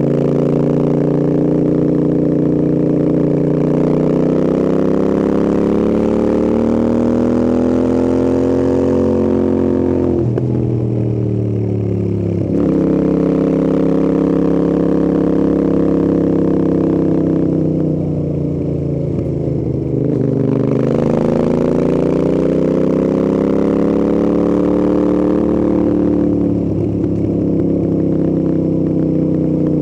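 Royal Enfield Interceptor 650's parallel-twin engine and exhausts under way on the road, the engine note climbing as the bike pulls. The revs drop about ten seconds in and again near twenty seconds, then build back up, with a short dip near the end.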